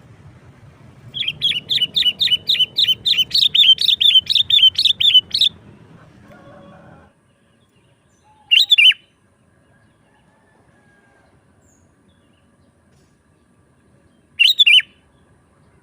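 Sooty-headed bulbul (kutilang) calling: a fast run of sharp, high chirps, about four or five a second, lasting some four seconds, then a single short call about halfway through and another near the end.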